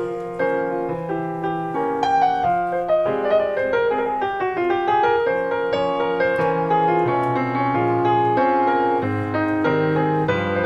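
Piano playing an instrumental passage of quick, flowing notes over a lower bass line, with no singing.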